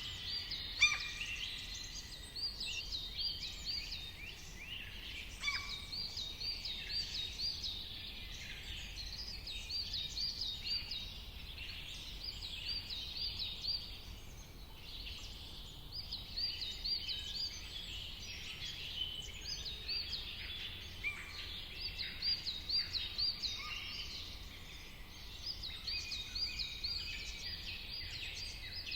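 Dawn-chorus-style birdsong from several songbirds singing at once. Throughout, one bird repeats runs of quick, high notes, several a second, while others call and chirp around it.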